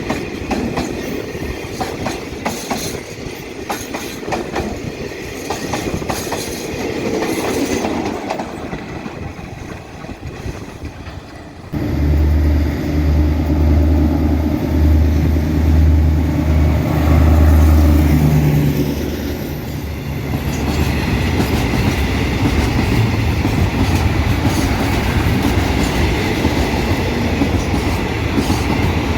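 Railway wagons rolling past with the wheels clacking over rail joints. About twelve seconds in, the sound switches abruptly to a loud, low, pulsing diesel locomotive engine, which settles into a steadier rumble a few seconds later.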